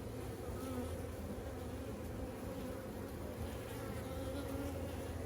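A colony of honeybees buzzing around an opened hive during a frame inspection: a steady, unbroken hum of many bees.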